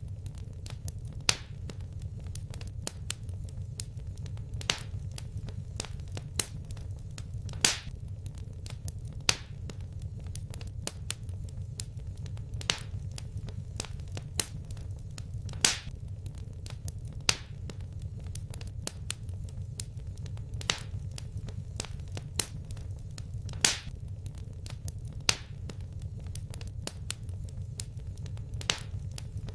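Fireplace fire crackling: irregular sharp pops and snaps, several to a second, with a louder crack every few seconds, over a steady low rumble of the flames.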